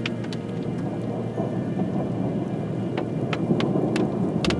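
Rain hitting a car's roof and windshield: scattered sharp drop ticks over a steady low rumble.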